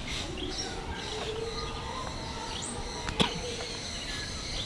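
Several birds chirping over and over, short high calls and little rising notes over a steady background hum, with one sharp click about three seconds in.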